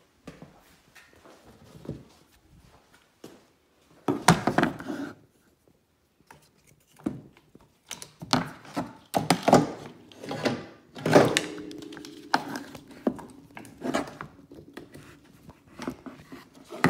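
Scattered clunks, knocks and rubbing as a replacement DC converter is handled, plugged into its connector and fitted into a Polaris Ranger EV electric utility vehicle, with a brief hum around the middle.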